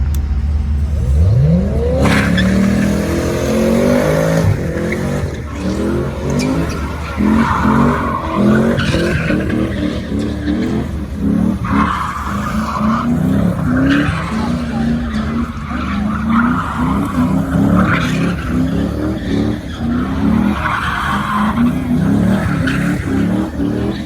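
A car doing a burnout. The engine revs up sharply about a second in, then keeps revving hard in pulses while the tires squeal in repeated bursts.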